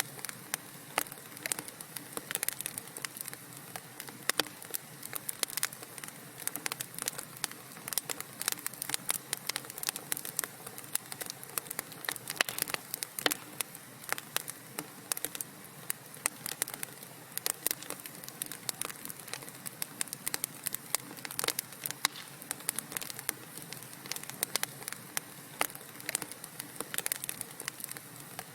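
Wood fire burning in a fireplace, with dense, irregular crackles and pops over a soft hiss.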